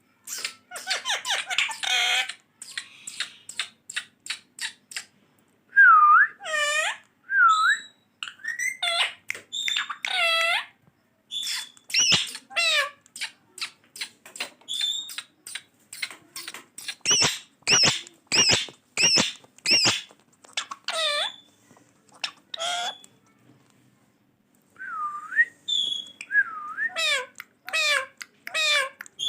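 Green ringneck parakeet (rose-ringed parakeet) chattering: a rapid run of short squeaks, whistles and clicks that bend up and down in pitch, with a brief pause a little after two-thirds of the way through.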